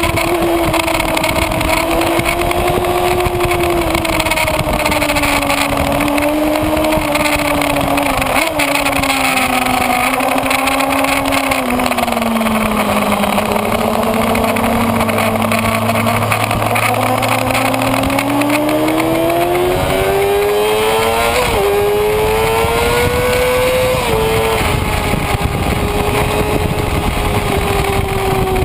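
Kawasaki Ninja ZX-6R's inline-four engine at speed under steady wind rush. About halfway through the revs fall away and then climb again, broken by two quick upshifts, before settling at a steady pitch.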